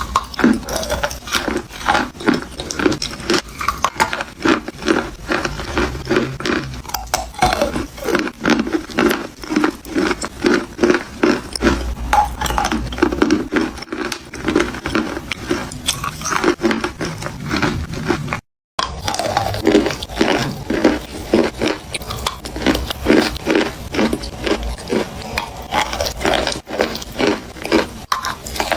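A person biting and chewing chalk, a fast run of crisp, dry crunches, broken once by a split-second gap about two-thirds of the way in.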